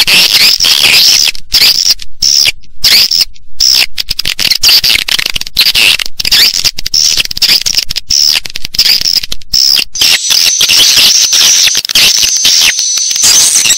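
Dense, continuous high-pitched twittering and chirping of many edible-nest swiftlets: a swiftlet lure call recording, played in swiftlet houses to draw the birds in to roost and nest. Near the end a steadier high whistle runs through the chatter.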